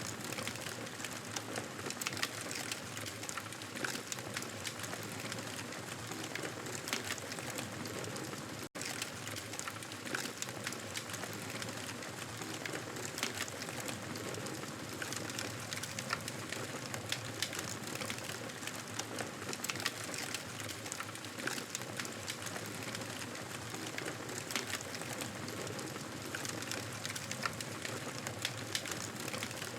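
Wood fire burning with a steady hiss and frequent small crackles and pops, with a split-second dropout to silence about nine seconds in.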